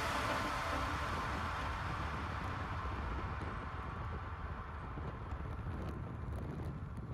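Steady low rumble and hiss of outdoor ambience, with the tail of background music dying away in the first second.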